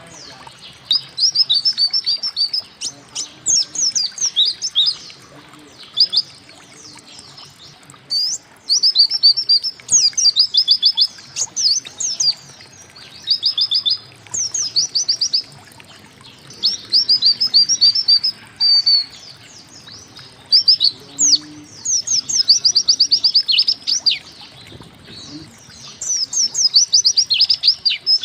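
Pleci (white-eye) singing: phrases about a second long of quick, high, downward-sweeping notes, repeated again and again with short pauses between them.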